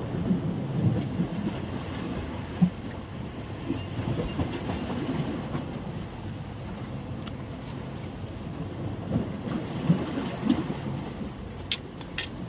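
Wind buffeting the microphone, a low irregular rumble over a steady rushing noise, with a few sharp clicks near the end.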